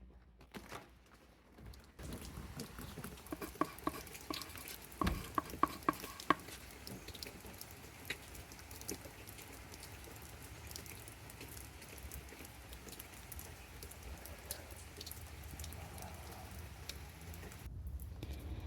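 Rain pattering steadily, with many scattered drop hits and a short run of louder, sharper hits a few seconds in. The patter cuts off near the end.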